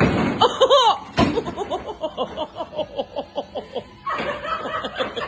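A person laughing in a quick run of short chuckling bursts. Before it, in the first second, there are a few rising-and-falling vocal sounds and one sharp knock.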